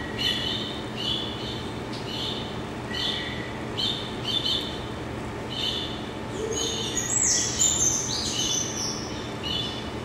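Birds chirping: short two-note chirps repeat about every half second, with a louder, busier burst of higher calls about seven to eight seconds in, over a steady low hum.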